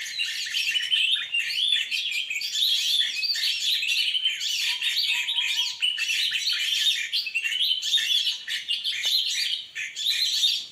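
Many small songbirds chirping and twittering together in a dense, continuous chorus of quick high notes.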